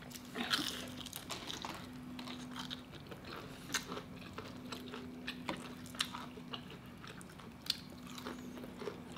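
Fried chicken being bitten and chewed close to the microphone: scattered crisp crunches and wet mouth clicks, a few louder than the rest, over a faint steady hum.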